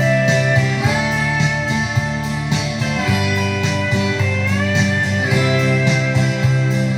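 Guitar music with plucked notes over a steady beat, without singing; some notes slide or bend up in pitch.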